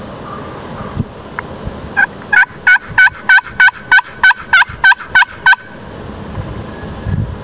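A run of about a dozen wild-turkey yelps, evenly spaced at roughly three a second and loud and close, starting about two seconds in and stopping abruptly after three and a half seconds.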